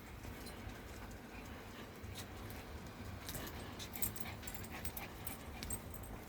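Small dogs moving about close by. Their faint sounds include a run of quick, sharp little clicks and ticks from about two seconds in, over a low steady rumble.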